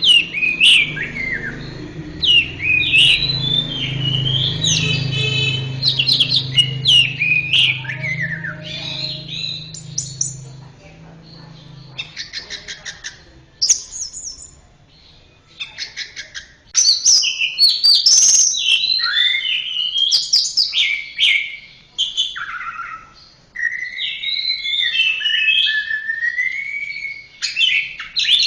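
Orange-headed thrush (anis merah) singing a varied run of whistled phrases that slide up and down. Rapid ticking trills come in places, with a brief lull about halfway through.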